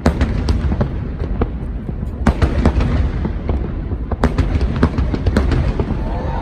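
Fireworks exploding: a rapid, irregular run of sharp bangs and crackles over a steady low rumble.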